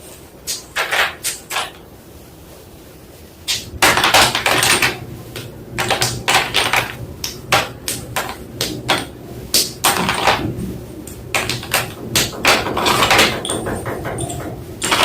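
White school chalk crunching in quick, crisp cracks. A few short crunches come at first, then a pause, then near-continuous crunching from about three and a half seconds in.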